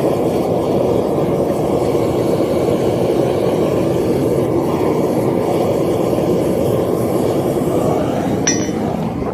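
Propane burner firing a small copper-melting furnace: a loud, steady rush of the flame at full heat, easing slightly near the end.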